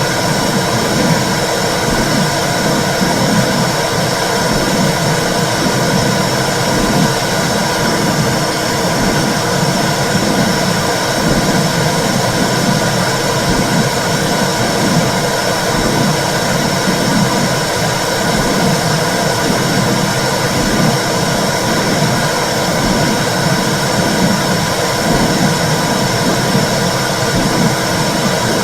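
Womb sound for soothing babies: a loud, steady whooshing noise with a low pulse about once a second, like the heartbeat and blood flow heard inside the uterus.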